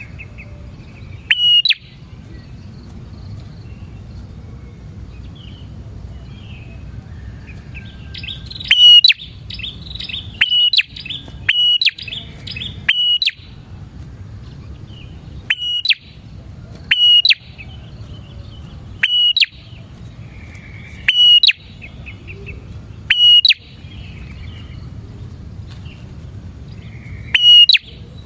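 Prinia (prenjak) calling: loud, sharp chirps, single or in quick runs about a second apart, over softer chattering and a steady low hum.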